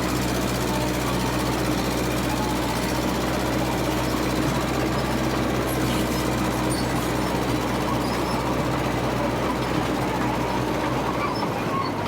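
Massey Ferguson MF 300 crawler dozer's engine running steadily at work, with a rattling clatter. Its low note shifts about a second before the end.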